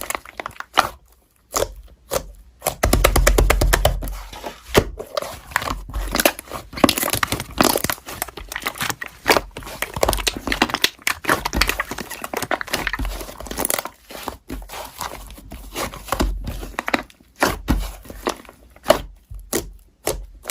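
Crinkling and crumpling handling noise, dense with irregular small clicks and crackles, briefly pausing now and then.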